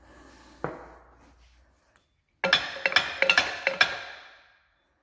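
Metal parts of a Ford 8-inch rear axle clanking as they are worked loose: one sharp knock about half a second in, then a quick run of ringing metal clinks from about two and a half to four seconds in.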